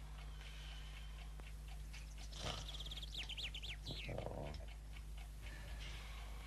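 Faint songbird chirps, a quick run of rising and falling notes about three seconds in, over a faint, even ticking.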